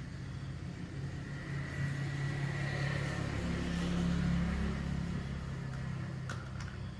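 A low, steady machine hum, an engine or electric motor running, that swells in loudness through the middle and eases off near the end.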